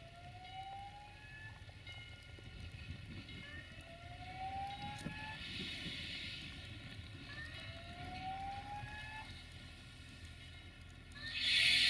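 A warning siren wailing upward about every two seconds, over the low rumble of an approaching Duewag BR628 diesel railcar. A loud hiss sets in near the end as the railcar draws close.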